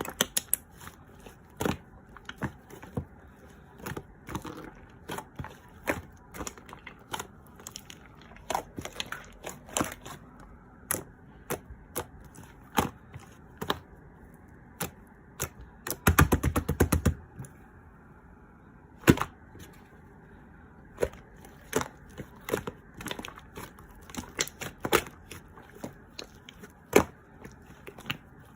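Chewy slime being squeezed and worked by hand, giving irregular sharp pops and clicks, with a quick rattle of many pops lasting about a second midway through.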